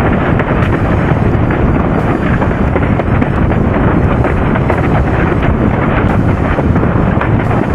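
Loud, steady wind buffeting the microphone of a camera on a windsurfer sailing at speed in high wind.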